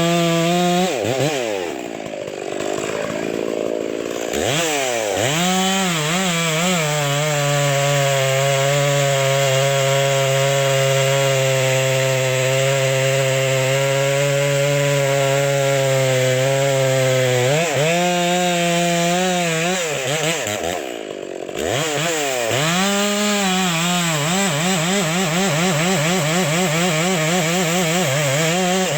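Modified Stihl MS 460 two-stroke chainsaw with a 28-inch bar cutting into wood at full throttle. It drops back toward idle twice and revs up again. It holds a long, steady, slightly lower-pitched run under load in the middle.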